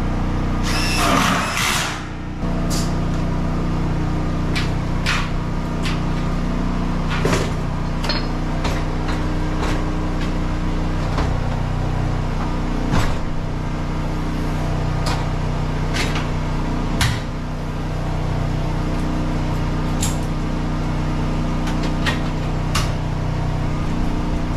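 A steady low motor hum with scattered sharp knocks and clanks, with a brief scraping rush about a second in.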